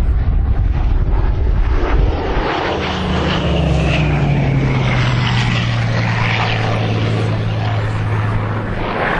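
Hawker Hurricane IV's Rolls-Royce Merlin V12 engine running at display power as the fighter flies past. Its note drops in pitch about three seconds in, then runs steady.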